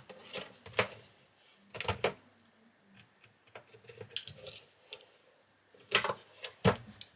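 Irregular clicks and knocks of metal hand tools and parts being handled during the teardown of an EV high-voltage junction box. The loudest knocks come about six and seven seconds in.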